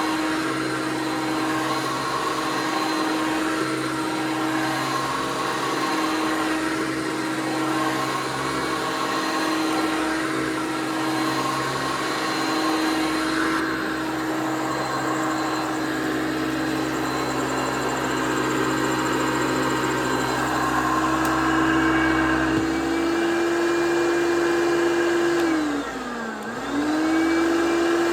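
1993 Hoover PowerMax upright vacuum cleaner running loud, its motor holding a steady whine. About three-quarters of the way in the pitch steps up slightly. Near the end the motor briefly sags, dipping in pitch and loudness, then comes back up to speed.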